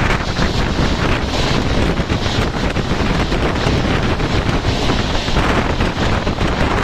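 Express passenger train running at speed: steady rushing wind buffeting the microphone over the continuous rumble of the train in motion.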